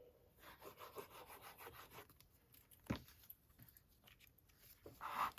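Paper and card being handled and rubbed on a journal page, faint scratchy rubbing with a sharp tap about three seconds in and a louder brief rustle near the end.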